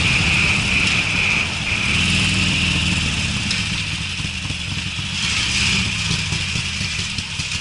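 Harley-Davidson Sportster's V-twin running under way through Screamin' Eagle mufflers, a deep low exhaust note that shifts in pitch a couple of times with the throttle, over a steady hiss of wind and road noise.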